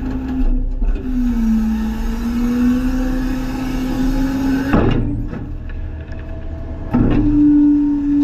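Garbage truck's engine and hydraulics running while dumping, a steady droning tone that wavers a little in pitch. Two sharp knocks come about five and seven seconds in, after which the drone runs louder and steadier.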